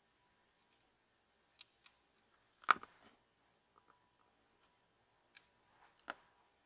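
A few sharp clicks and taps of small hard objects being handled, the loudest a clattering knock a little under halfway through, with single clicks before and near the end.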